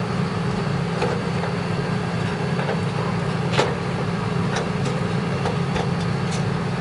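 A steady low mechanical hum with several light, sharp clicks and taps scattered through it, from computer parts being handled.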